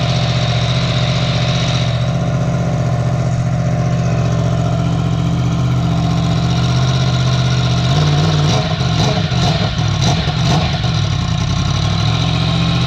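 Yamaha MT-10's crossplane inline-four idling with its muffler removed, a steady note that still sounds fairly quiet. About eight seconds in the sound turns uneven, rising and dipping.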